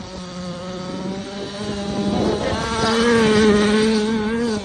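Gas-powered Losi RC car's small two-stroke engine running through grass, revving up about two seconds in and holding high before the throttle drops off at the end.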